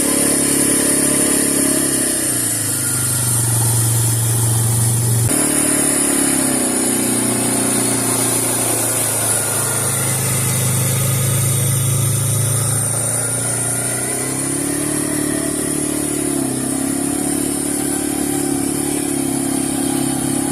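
Suzuki Eiger 400 ATV's single-cylinder engine running under way, its pitch rising and falling with the throttle, over a steady high hiss. The engine note changes abruptly about five seconds in.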